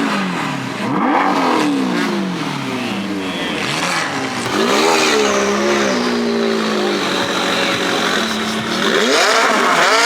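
Car engine revved hard again and again, its pitch rising and falling several times and held high for a couple of seconds in the middle.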